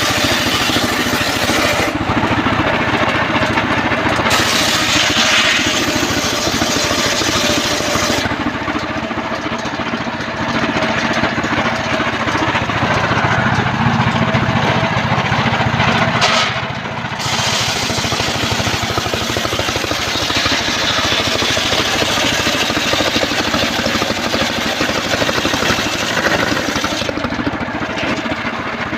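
Engine-driven homemade portable circular sawmill running, its saw working through trembesi timber. The noise is loud and continuous, its high-pitched part dropping away and coming back several times.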